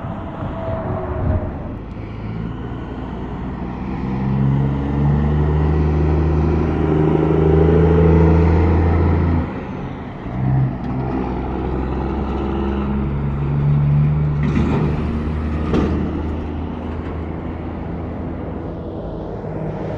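Highway traffic passing: a big truck's engine drones loudest about halfway through, then drops away abruptly, and another vehicle's engine swells later with two brief hisses.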